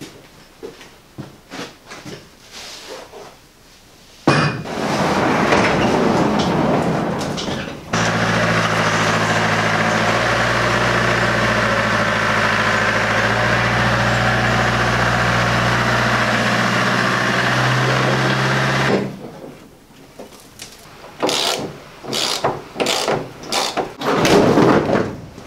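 Workshop clatter of knocks and clanks, then a classic Range Rover's engine running steadily for about eleven seconds as the vehicle drives into the shed, after a rougher, noisier stretch of a few seconds. Near the end come irregular metal clunks as a vehicle's bonnet is handled.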